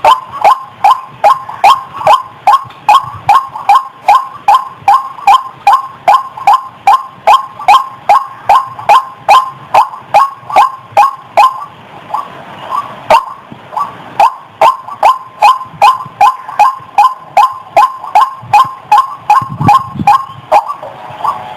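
White-breasted waterhen (ruak-ruak) calling: short, sharp notes repeated evenly about two and a half times a second, with a brief break about twelve seconds in.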